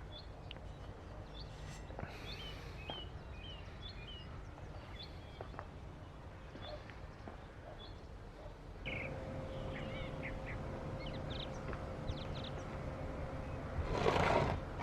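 Birds chirping in short repeated calls over a low steady hum. A steady tone joins about nine seconds in, and a loud burst of noise comes near the end.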